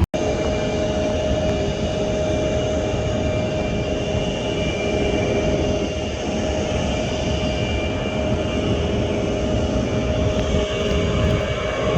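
Jet airliner engines running steadily at low power, a constant whine with several held tones over a rumble, beginning just after a sudden cut.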